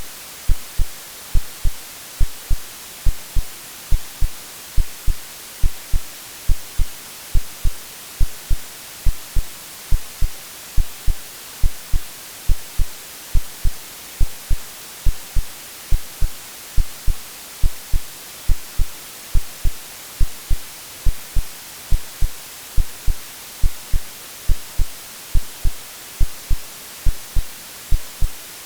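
Synthesized heartbeat, a double low thump about once a second, over a steady white-noise hiss: an AI-generated womb-like sleep sound for soothing a baby.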